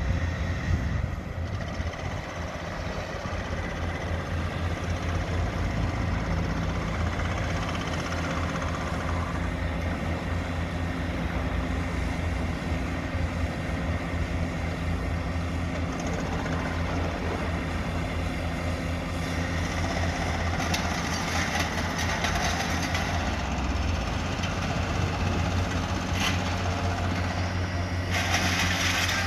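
Diesel engine of a demolition machine running steadily with a low rumble. In the second half, intermittent clattering and crunching is heard, with a louder burst of it near the end.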